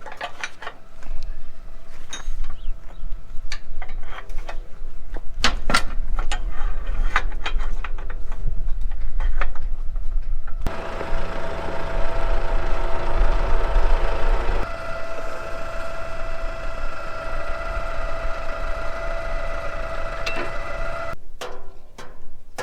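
Farm machinery at a grain auger: metal clanks and knocks over a low engine rumble, then suddenly a steady machine drone with a whine that stops abruptly near the end.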